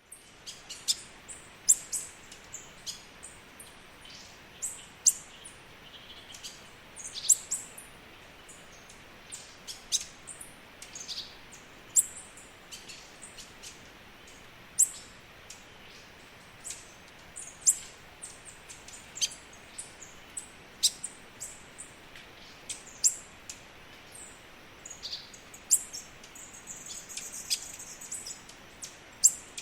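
Small birds chirping: many short, sharp, high chirps in quick irregular succession over a faint steady hiss.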